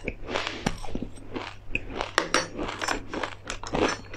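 Close-up chewing of a crunchy mouthful of fried perilla and flax seeds, pumpkin seeds and fried chili crisps: dense, irregular crisp crunches.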